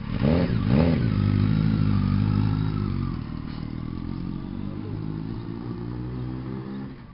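Suzuki Hayabusa's inline-four engine, breathing through a single aftermarket slip-on silencer, revved in two quick throttle blips. It then pulls away at a steady note that grows fainter as the bike rides off.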